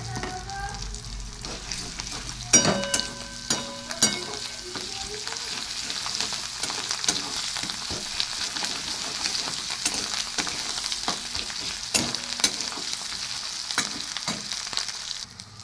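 Tomato-and-spice masala with ginger paste sizzling in hot oil in a wok while a metal spatula stirs and scrapes it, with many small clicks of the spatula on the pan. Two louder knocks with a short metallic ring come about three and four seconds in, and the sizzle drops away sharply near the end.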